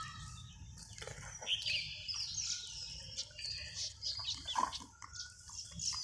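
Small birds chirping: many short, high calls scattered throughout, over a low steady rumble.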